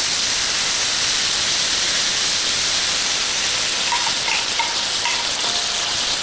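Stir-fry in an electric wok sizzling with a steady hiss as the sauce is poured in over the pork, peppers and lychees.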